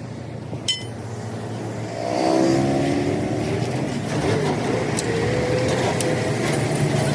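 A motor vehicle engine running, growing louder about two seconds in with its pitch gliding up and down as it accelerates. A single sharp metal clink sounds near the start.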